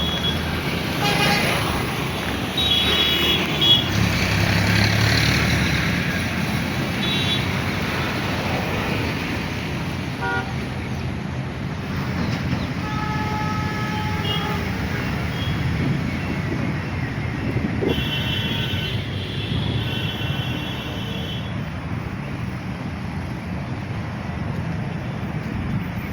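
Road traffic running steadily, with vehicle horns honking several times; a longer stretch of high horn toots comes about two-thirds of the way through.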